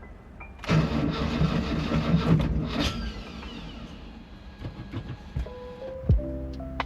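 Engine-swapped 1983 Mazda B2000 mini truck being cranked over by the starter for about two seconds, then the sound fades away; a first start attempt after setting up the fuel injection. Stepped music notes play before it and again near the end.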